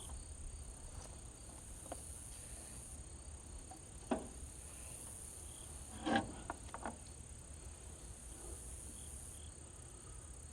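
Insects trilling steadily in the background, with a few short metallic clinks from tools and battery hardware about four seconds in and again around six to seven seconds in, during a tractor battery swap.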